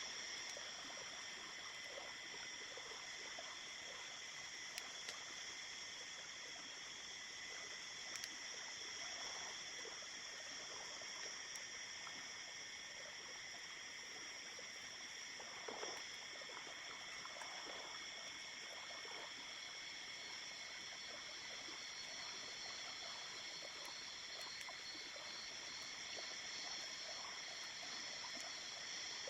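Small river or stream flowing, a faint, steady babbling of water with a few soft clicks or knocks now and then.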